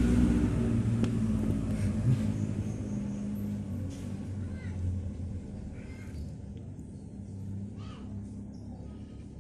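Bus diesel engine and exhaust running with a low rumble that grows steadily fainter over the several seconds.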